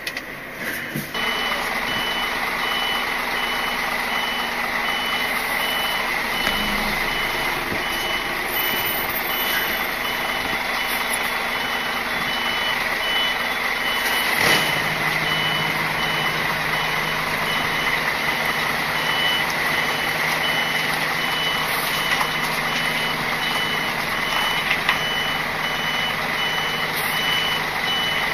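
An articulated lorry's reversing alarm beeping evenly and repeatedly over the steady running of its diesel engine, starting about a second in.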